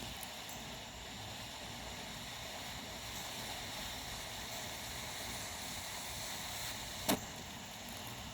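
Pull-string smoke grenade hissing steadily as it burns and pours out blue smoke. A single sharp click sounds about seven seconds in.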